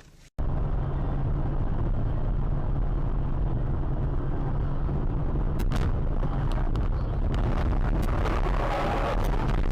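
Steady, loud, low rumble of vehicle road noise, of the kind a dashcam picks up. It starts abruptly just after a brief silent gap, and a few sharp clicks sound over it.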